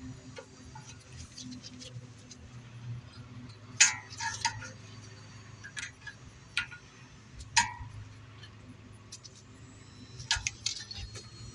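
Scattered sharp metallic clinks and taps of hand tools and small steel parts being handled during suspension reassembly, irregularly spaced, the loudest about four seconds in and again near eight seconds in, over a low steady hum.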